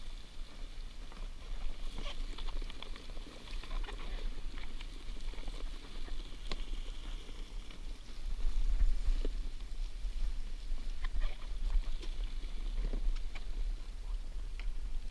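A catch of glass minnows flipping in a fine-mesh cast net on a kayak: a scattered, uneven crackle of many small ticks and pattering, with the net being handled. It gets louder a little past the middle.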